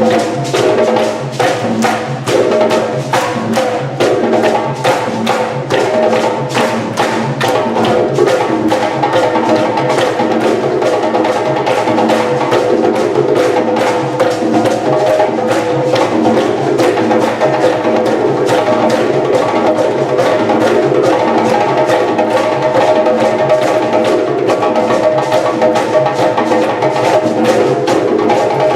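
A West African drum ensemble playing a fast, steady, interlocking rhythm for a Guinean dance piece, with dense rapid strokes over a repeating low drum pattern.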